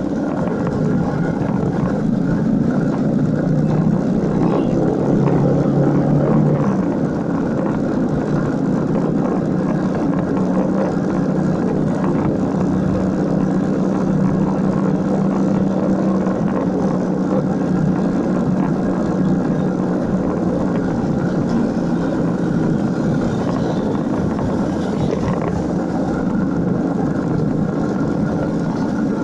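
Motorcycle engine running while riding, a steady drone that is a little louder for the first several seconds, then eases off about seven seconds in and holds steady.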